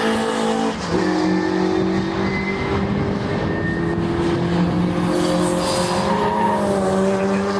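Racing car engines at full throttle: a gear change drops the engine note about a second in, then the note climbs steadily as the car accelerates.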